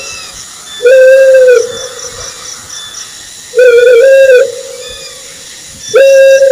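Owl calling: three long, even hoots about two and a half seconds apart, each trailing off in an echo, over a faint high pulsing in the background.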